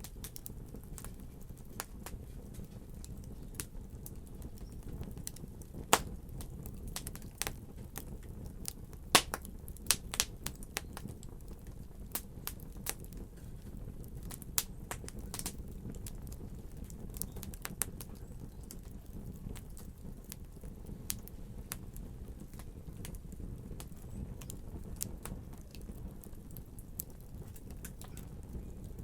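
Wood fire burning in a fireplace: a steady low rumble of flames with irregular crackles and sharp pops, a few louder pops about six seconds in and again around nine to ten seconds.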